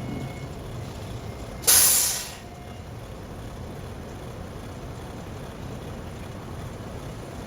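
A truck's air brakes let out one sudden, sharp hiss of air about two seconds in, fading within half a second, over the steady low running of the engine.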